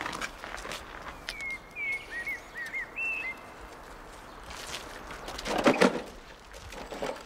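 Outdoor street ambience: a few soft footsteps, and a small bird giving a quick run of short chirps between about one and three seconds in. About six seconds in comes a louder, brief noise.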